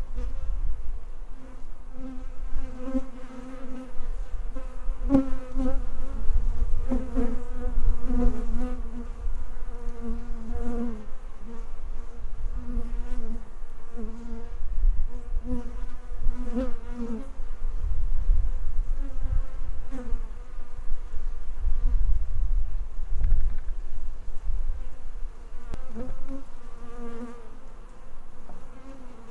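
Honeybees buzzing around beehives, individual bees swelling and fading as they pass close, over a continual buzz, with a low rumble underneath.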